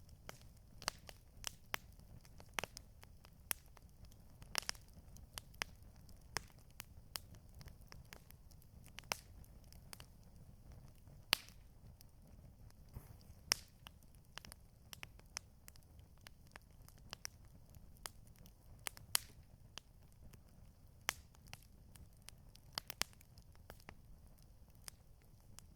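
Campfire crackling: irregular sharp pops and snaps, sometimes several in a second, over a low steady rumble of the burning fire.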